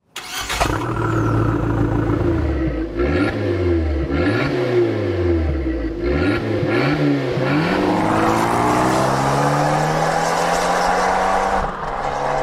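Car engine revving, starting abruptly. The revs drop and climb again several times, then rise slowly and steadily through the last few seconds.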